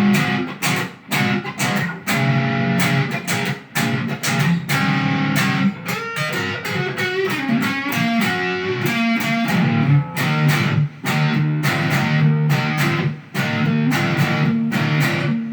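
Guitar playing an instrumental break: steady strummed chords with picked melody lines over them, no singing.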